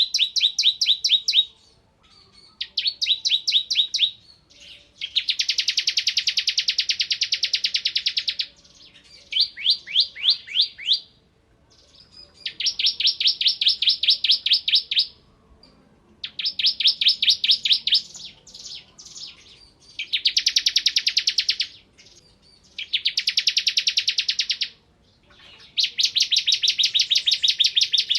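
Bar-winged prinia (ciblek kristal) singing in bursts of very rapid, evenly repeated notes, a machine-gun-like rattle: about nine bursts, each one to three and a half seconds long, with pauses of about a second between them.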